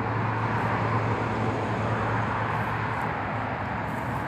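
Steady outdoor background noise: a continuous even rush with a constant low hum underneath, of the kind that steady road traffic or a running machine makes.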